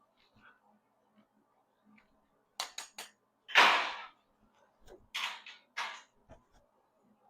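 Metalwork on small scrap-metal parts: a quick run of three sharp clicks, then a louder half-second burst, then two shorter bursts about a second later.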